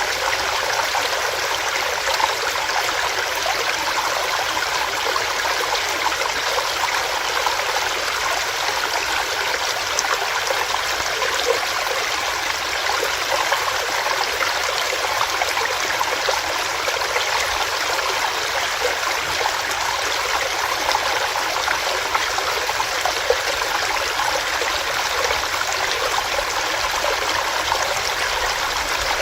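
Small rocky stream running over rocks: a steady rush of water with fine splashing and gurgling.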